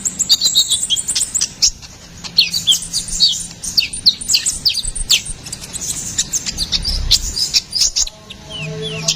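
Sunbird, known in Indonesia as konin or kolibri ninja, in full song: a rapid, unbroken string of high, thin chirps and quick falling notes.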